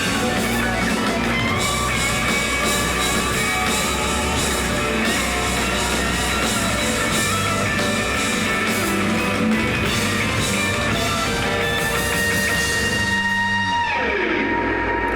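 Live rock band playing an instrumental passage, electric guitar over bass and drums. About fourteen seconds in, most of the band drops out, leaving a held high tone and a quick falling glide in pitch.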